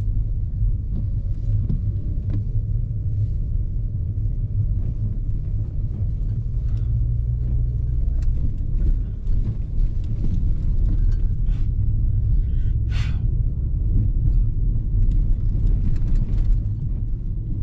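Steady low road rumble inside a car's cabin while driving a rough, potholed, snow-covered road, with scattered small knocks and rattles as the car jolts over the bumps. A brief hissing burst comes about 13 seconds in.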